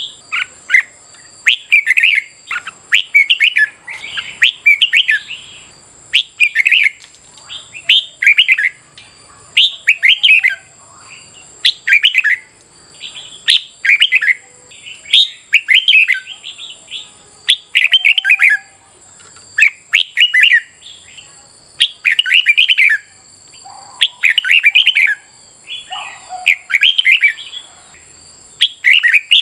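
Red-whiskered bulbul singing: short, loud warbled phrases repeated about every one and a half seconds, in the contest-style song (hót đấu) used to spur caged bulbuls to sing.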